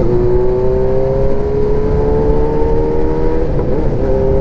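Kawasaki KZ550A's air-cooled inline-four pulling on the road, its pitch rising steadily through a gear and then dropping about three and a half seconds in as the rider shifts up. Under it runs a steady low rumble.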